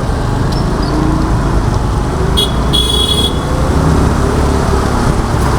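A vehicle horn toots twice about two and a half seconds in, a short beep then a longer one, over steady traffic and riding noise.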